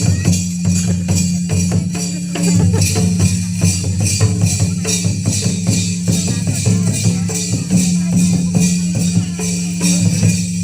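Ho traditional dance music: drumming in a steady rhythm with jingling, rattling percussion over a strong low drone.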